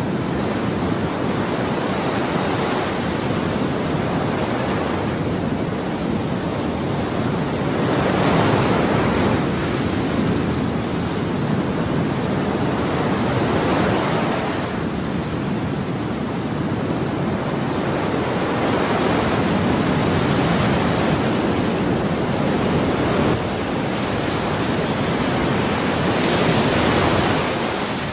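Ocean waves breaking on a shore, a steady wash of surf that swells and ebbs, with stronger surges every several seconds.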